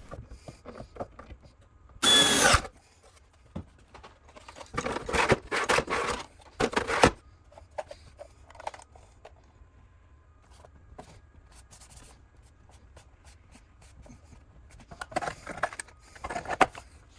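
Power drill running in several short bursts, with clicks and knocks of handling in between.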